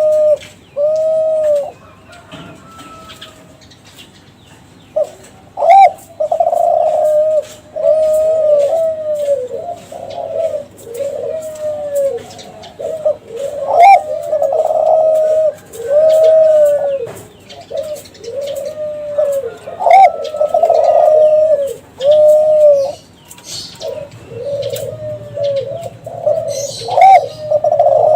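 Kelantan-strain spotted dove (derkuku/tekukur) singing its cooing song: a sharp opening note followed by a run of rounded, bouncing coos, the phrase repeated about every six to seven seconds.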